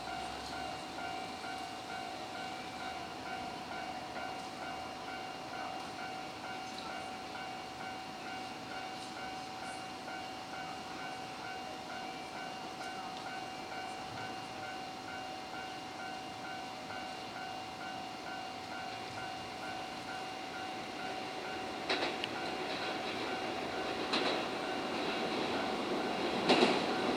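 Japanese level-crossing warning bell ringing steadily with a regular pulse about twice a second. Near the end a Keio Line electric train draws in, its wheels clacking over rail joints and growing louder.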